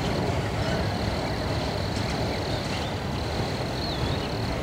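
Autorack freight cars rolling slowly past at about 15 mph: a steady rumble of steel wheels on rail. A thin steady high whine runs under it, with a few brief wavering high tones near the end.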